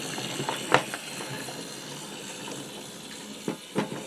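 Battery-operated Thomas toy engine running along a wooden track: a steady whirr from its small motor and wheels, with a sharp click about a second in and two more near the end.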